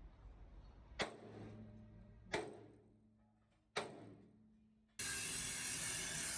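Three hammer blows on steel, evenly spaced, each leaving a low metallic ring that dies away. About five seconds in, a loud steady hiss starts suddenly.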